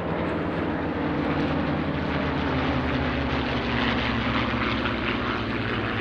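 Piston-engined propeller warbird running steadily, a continuous engine drone with propeller noise.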